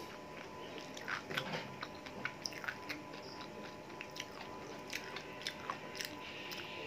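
A person chewing and biting on a chicken leg piece close to the microphone: a run of irregular sharp clicks and crackles of eating.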